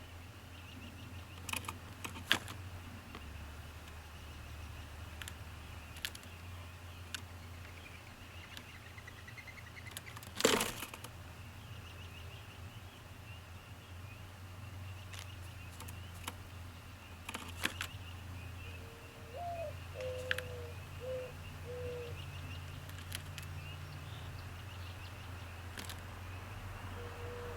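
A bird cooing in a short series of low notes, the first one rising, about two-thirds of the way in, over a steady low hum. Scattered sharp taps come throughout, the loudest about ten seconds in.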